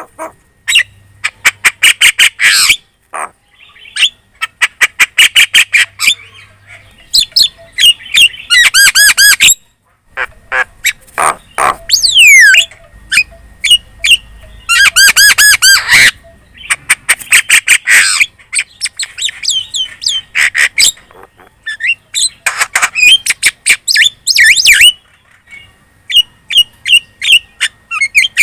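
Javan myna singing a loud, busy chatter: rapid runs of clicks and harsh squawking notes mixed with whistles that slide down in pitch, coming in bursts with short pauses between.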